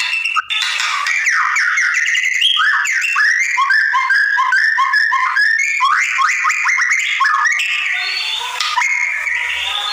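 Black-naped oriole giving a continuous run of rapid, short chirps and squawky calls, with a brief break about half a second in.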